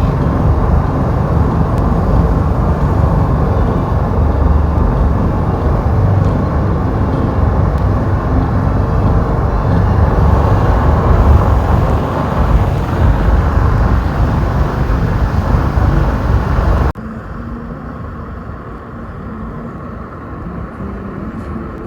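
Road and wind noise of a car driving: a loud, steady low rumble. About three-quarters of the way through it cuts off abruptly to a much quieter, even hush.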